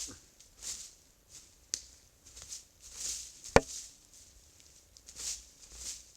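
Footsteps crunching at a walking pace, about one soft step every half-second to second, with two sharp clicks, the second and louder one about three and a half seconds in.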